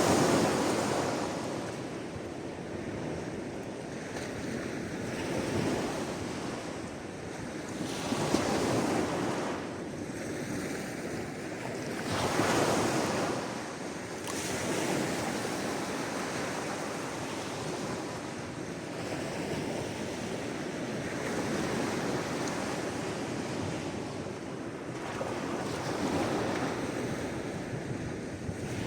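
Sea waves breaking and washing on the shore, one surge every few seconds over a steady hiss of surf, with a little wind.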